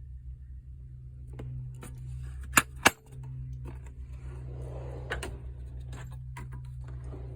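Metal hand tools clinking and clacking as they are handled in a toolbox, with two loud sharp clacks in quick succession a little under halfway through, over a steady low hum.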